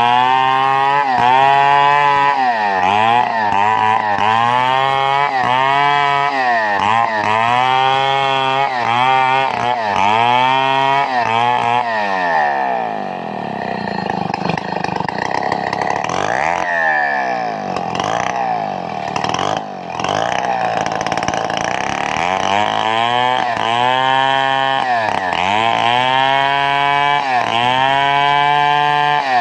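Chainsaw engine running under load while cutting wood, its pitch dipping and recovering about once a second. About halfway through it drops lower and sounds rougher for several seconds, then the regular dipping returns.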